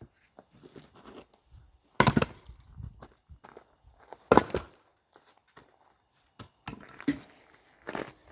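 Axe splitting firewood: two sharp, loud wooden strikes about two seconds apart, followed by several lighter knocks and thuds of wood and footsteps.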